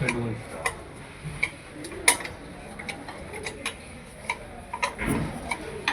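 Irregular sharp metallic clicks and taps, like hand tools and spanners knocking on metal engine parts, with a duller thump about five seconds in.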